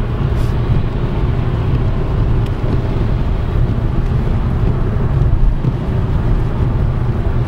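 Car interior noise while driving: a steady low rumble of engine and tyres heard from inside the cabin.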